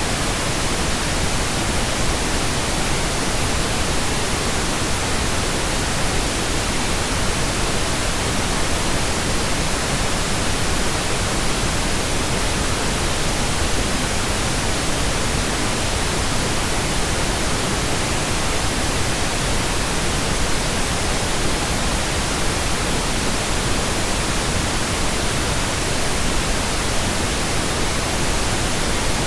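Steady computer-generated pink noise: an even, unchanging hiss spread across all pitches.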